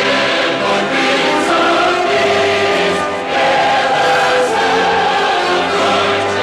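Choral music: a choir singing sustained chords with instrumental backing.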